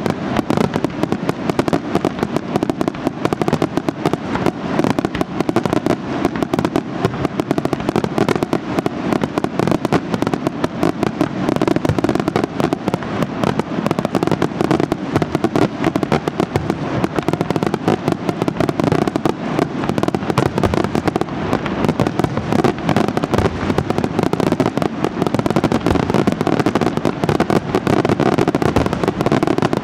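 Aerial fireworks show: a dense, unbroken barrage of shell bursts and crackling stars, bang after bang with no pauses.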